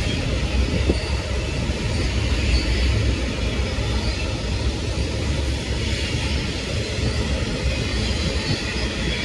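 Freight train cars rolling past on the rails: a steady, continuous rumble.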